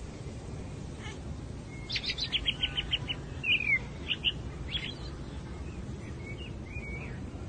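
A small bird chirping: a quick trill of about eight short notes about two seconds in, then a down-slurred note and a few scattered chirps, over a steady low background hiss.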